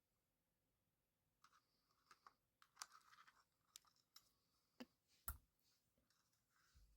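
Faint, scattered clicks and light scratching of a small screwdriver and tiny screws being worked into a drone's arm hinge, with one sharper click about five seconds in.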